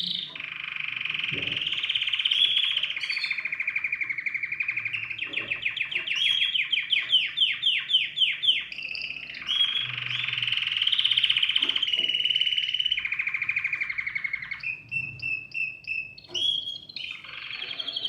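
Domestic canary singing a long, loud song of rolling trills, with a run of quick falling notes, about four a second, a third of the way in, and a string of short repeated chirps later on.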